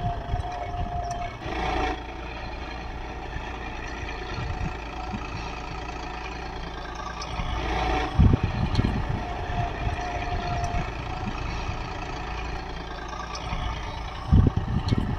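John Deere four-wheel-drive tractor's diesel engine running steadily while pulling a plough. Two loud low thumps break through, about eight seconds in and near the end.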